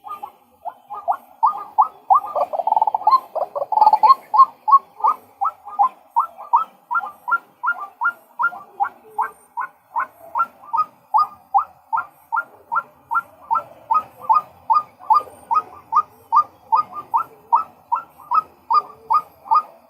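Male white-breasted waterhen calling its monotonous 'kwak' call: a steady string of short, sharp notes, a little over two a second. The sound is busier for a couple of seconds near the start.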